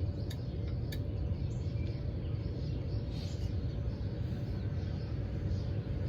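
Songbirds chirping faintly over a steady low rumble. Two short clicks come in the first second.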